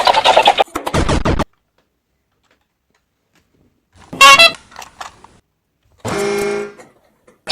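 A string of separate toy sound effects with pauses between them: a short loud burst and a low rumble at the start, a sharp high chirp about four seconds in, and a steady horn-like honk just under a second long near the end.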